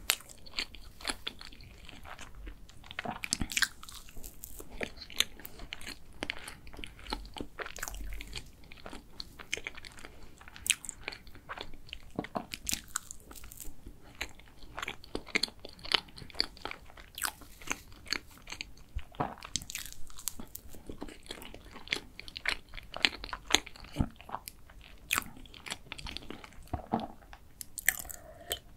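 Close-miked mouth sounds of someone eating soft cake: chewing, wet smacks and many small sharp clicks, with a sip and swallow of a drink near the end.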